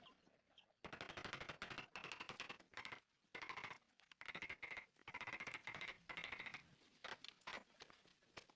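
A woodworking tool working wood in repeated strokes: bursts of rapid rasping clicks, each about a second long, with short pauses between them.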